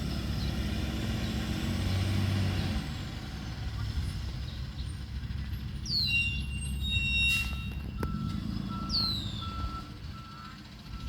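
Tow truck engine running with a low rumble, loudest in the first few seconds. About seven seconds in, a reversing alarm starts beeping at even intervals, and two short falling chirps are heard along the way.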